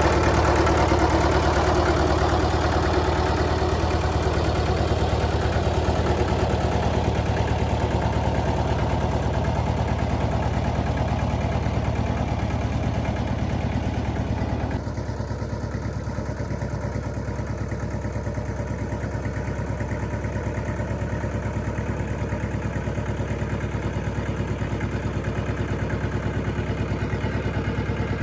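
A vehicle engine running steadily at idle. Halfway through, the sound suddenly becomes quieter and duller, then stays steady.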